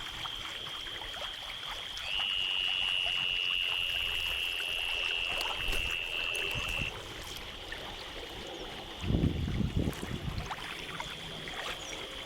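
Creek water running and trickling over rocks. A steady high-pitched buzz comes in about two seconds in and stops near seven seconds, then returns near the end. A brief low rumble, the loudest sound, comes about nine seconds in.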